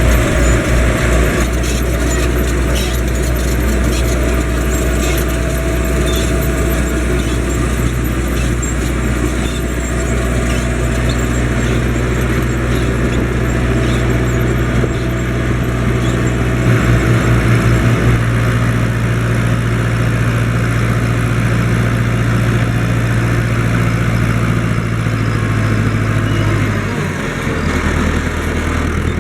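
Fendt Farmer 106 S tractor engine running steadily at working speed. Near the end the engine note drops lower for a moment.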